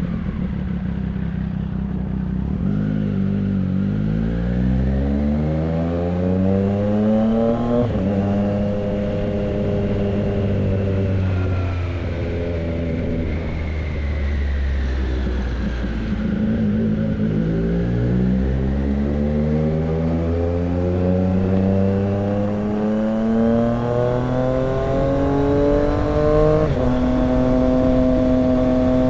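Triumph Street Triple 765 RX's three-cylinder engine through an SC Project S1 exhaust, revving up under acceleration with an upshift about a quarter of the way in. It eases off with the pitch sinking in the middle, then pulls again, with another upshift near the end before running steadily.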